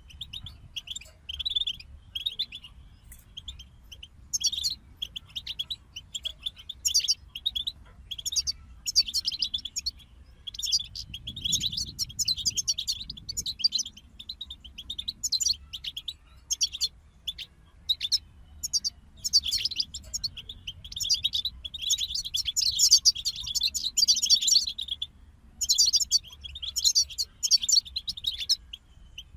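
European goldfinches singing: fast twittering song phrases in bursts with short breaks, several birds overlapping and busiest in the second half.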